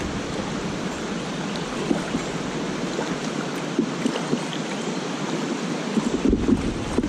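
Rushing stream water, a steady hiss with small irregular splashes. A low wind rumble on the microphone comes in near the end.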